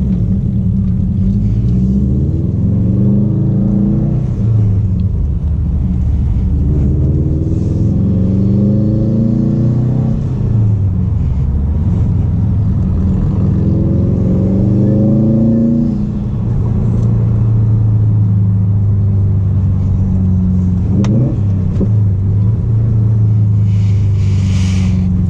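2019 Subaru WRX STI's turbocharged flat-four engine heard from inside the cabin, pulling up through three gears with the pitch rising and dropping at each upshift, then cruising at a steady pitch with a small blip of throttle.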